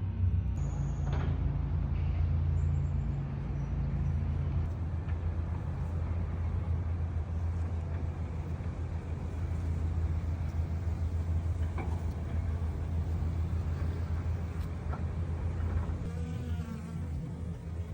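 A steady low droning hum with a noisy hiss over it.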